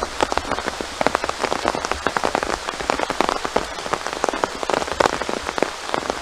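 Heavy rain falling, with many separate drop hits close to the microphone in a dense, steady stream.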